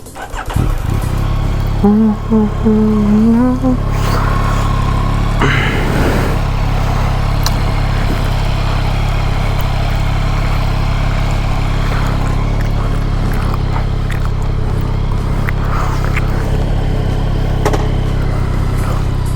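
2021 Yamaha MT-09's three-cylinder engine coming in about half a second in and then running steadily at an even pitch.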